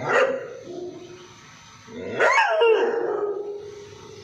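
Labrador dog barking loudly. A sharp single bark comes right at the start, and about two seconds in a longer bark trails off into a wavering, drawn-out tone lasting about a second.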